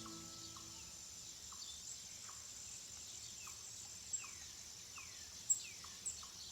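Faint birds chirping: a string of short, falling chirps about every half second, with three sharper, high chirps in the last few seconds.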